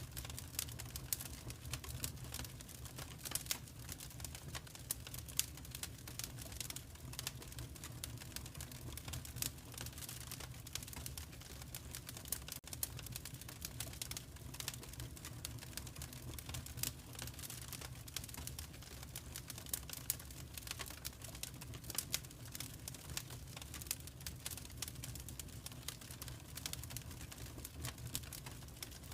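Fireplace fire crackling: dense, irregular small pops and snaps over a low, steady rumble.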